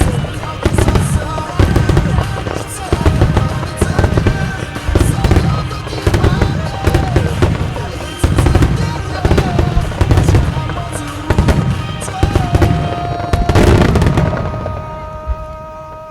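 Starmine fireworks barrage: aerial shells bursting in heavy booms about once a second over accompanying music, building to a large final burst about 14 s in, after which held musical tones fade away.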